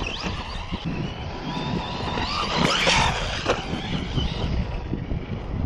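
The electric motor of a Traxxas Rustler 4x4 RC truck whining as it revs up and down while driven, over a constant low rumble.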